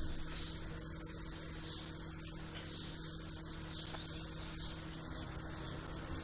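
Small birds chirping in a steady repeated series of short high calls, about two a second, over a constant low hum.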